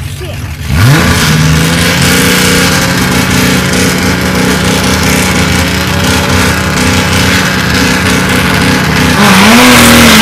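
Drag-racing car engines at the start line: under a second in, one engine is revved sharply and then held at high, steady revs. Near the end the revs climb higher and waver as the launch begins.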